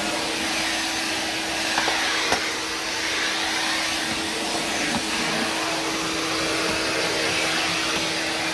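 Numatic NV250 cylinder vacuum cleaner running steadily while vacuuming, a constant rushing of air over a steady motor hum, with a couple of faint knocks about two seconds in.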